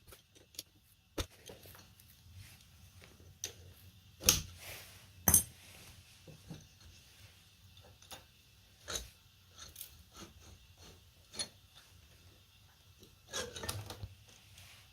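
Scattered clicks and metallic clinks of small moped engine parts and tools being handled during disassembly, with two louder knocks about four and five seconds in and a short run of rattling near the end.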